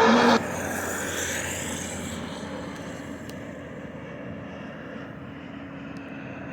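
Shortwave receiver static between stations: a broadcast voice cuts off about half a second in, leaving an even rushing hiss with a faint steady hum that slowly gets quieter.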